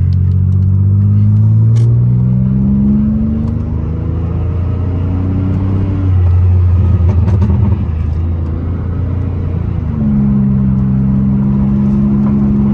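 Muffler-deleted 2002 Pontiac Grand Prix GT's V6 exhaust pulling away from a stop, its pitch rising through the first six seconds. A little past halfway it drops into a rough, crackly burble off the throttle, then the revs jump up about ten seconds in and hold steady.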